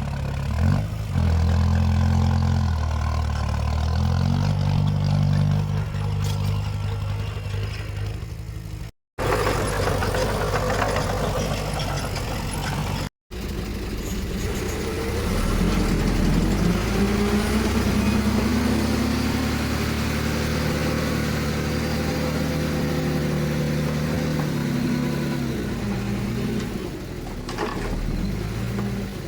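Heavy diesel engines of earthmoving machines, a bulldozer and dump trucks, running and working, their pitch rising and falling with load. The sound cuts out briefly twice, about nine seconds in and again about four seconds later.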